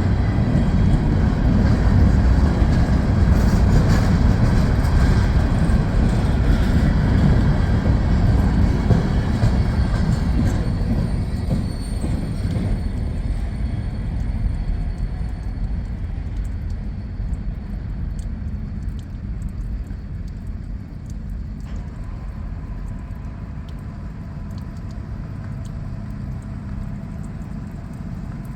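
A freight train rolling past, a steady low rumble of wheels on rail that slowly fades as the train moves away.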